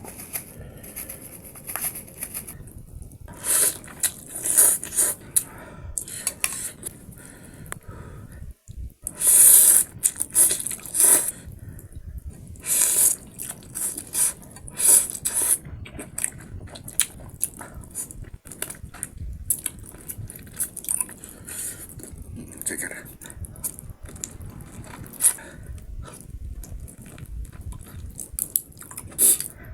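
Close-miked eating of boiled noodle soup and chicken feet: short, irregular wet slurps and chewing sounds, with cutlery clinking against a bowl.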